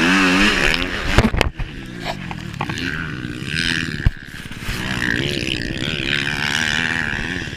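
Dirt bike engine running with a wavering, rising and falling pitch as the throttle is worked, with a cluster of sharp knocks about a second in and another single knock about four seconds in.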